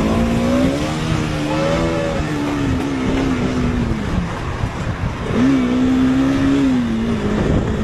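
Motorcycle engine running at speed, its pitch climbing and holding, falling away about four seconds in, then rising sharply again about a second later and settling lower near the end, over a steady rushing noise.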